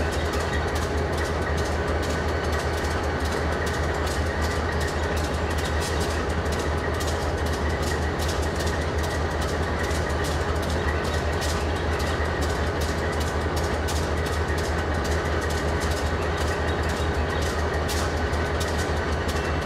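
Diesel-electric freight locomotives passing close by: a steady low engine drone with wheels clicking over the rail, the clicks coming thick and fast.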